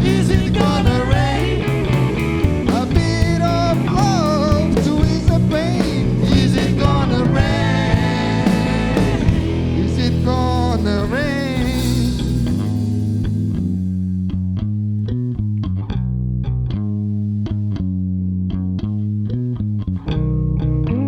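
Rock band playing an instrumental break: a lead guitar line with bent notes over bass guitar and drums with cymbals. About twelve seconds in, the cymbals and high lead drop away, leaving quieter picked guitar and bass.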